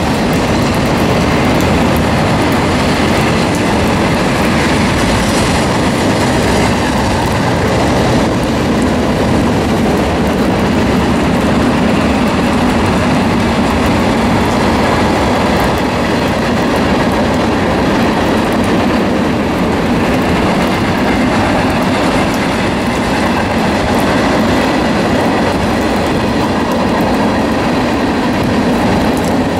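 Freight cars of a CSX manifest train, boxcars and tank cars, rolling past: a steady, continuous noise of steel wheels running on rail, with no let-up.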